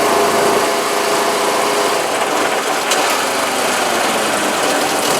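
Honda four-wheeler (ATV) engine running steadily while riding on concrete, under an even rushing noise from tyres and wind; the engine's tone fades back after about two seconds.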